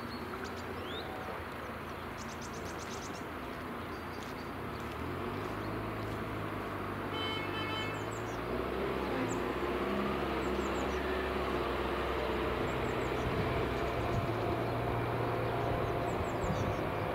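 A train approaching on the line, its low rumble growing steadily louder, with a short horn blast about seven seconds in. Small birds chirp.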